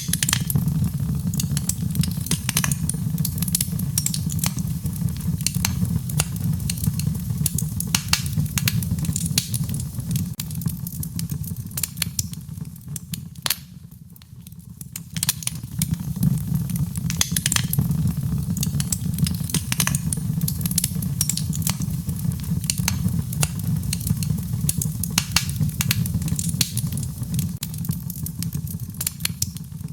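Wood fire crackling in a fireplace: a steady low rumble of flames with many sharp pops and snaps. The rumble dies down briefly about halfway through, then returns.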